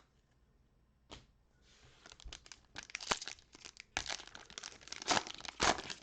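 Trading card pack wrapper being torn open and crinkled: a single click about a second in, then a run of crackling and tearing that grows louder.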